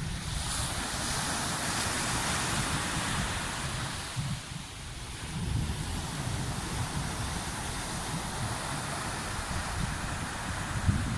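Sea waves washing in, with wind buffeting the microphone in low rumbles. The wash swells near the start, eases about four seconds in, then builds again.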